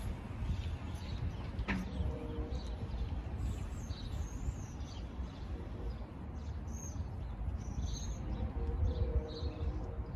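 Small birds chirping now and then over a steady low rumble of outdoor background noise, with a single brief click about two seconds in.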